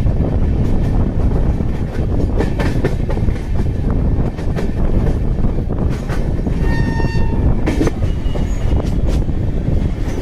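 Indian Railways passenger train running along the track, heard from a coach window: a steady low rumble with the clatter of wheels over rail joints and points. About seven seconds in, a horn sounds once, a single steady note lasting under a second.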